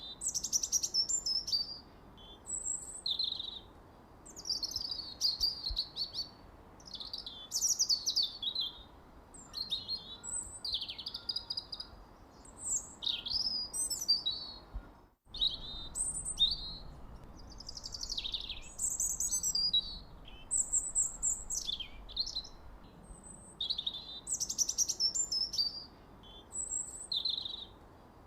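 Songbirds singing: a busy, continuous stream of high chirps, trills and short sweeping phrases over a faint background hiss, with a sudden brief break about halfway through.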